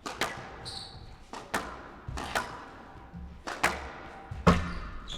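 Squash ball being struck by rackets and hitting the court walls in a rally: about five sharp cracks roughly a second apart, ringing in the glass court, the loudest near the end, with a brief shoe squeak about a second in.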